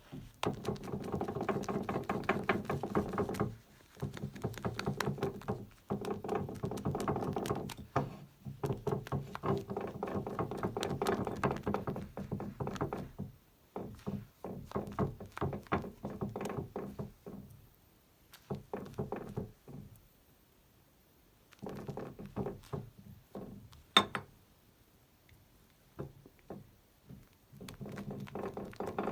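Maggard G5 synthetic shaving brush swirled and churned in a Captain's Choice shaving scuttle, building lather: rapid wet squelching and brush scratching against the bowl in bursts with short pauses, and one sharp tap about 24 seconds in.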